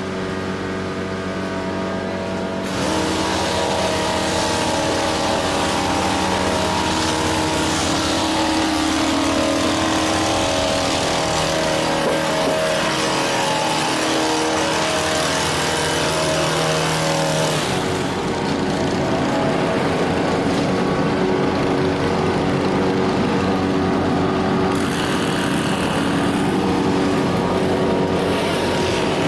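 An engine running steadily. A louder rushing noise joins it about three seconds in, drops away near eighteen seconds, and returns briefly near the end.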